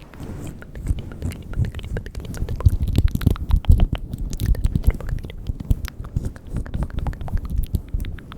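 Close-miked ASMR mouth sounds: a dense run of quick wet clicks and smacks with soft low thumps, busiest a few seconds in.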